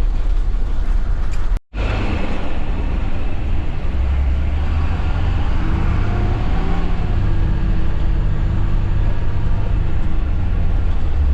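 Vehicle engine running steadily with a deep rumble while under way. The sound cuts out for an instant about a second and a half in.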